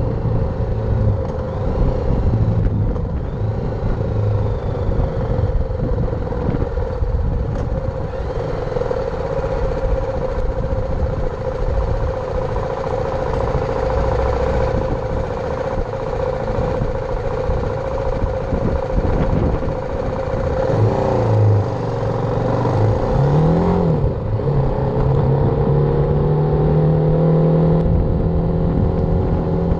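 BMW G310R's single-cylinder engine running under way, mixed with wind noise. About two-thirds of the way through, the engine note dips and swings up and down as the bike slows and changes gear, then climbs steadily as it accelerates.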